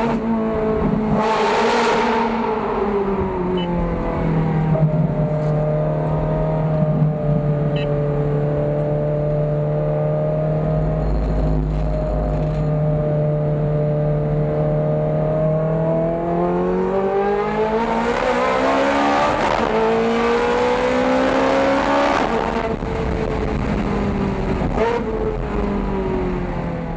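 Ferrari F430 Scuderia V8 running through cat bypass pipes and an X-pipe muffler delete. The engine note drops, holds steady for about ten seconds, then climbs through the revs about two thirds of the way in and falls away again.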